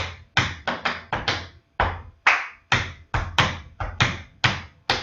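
Tap shoes striking a hard floor in a quick, syncopated rhythm, about fourteen sharp taps, dancing a step of the Shim Sham routine.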